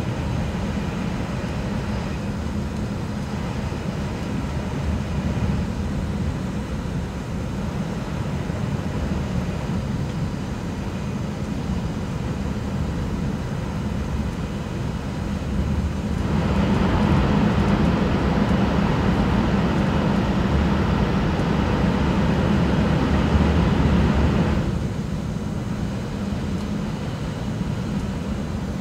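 Cabin noise of an E6 series shinkansen running at speed: a steady low rumble and rushing of wheels and air. A little past halfway it grows louder and hissier for about eight seconds, then settles back.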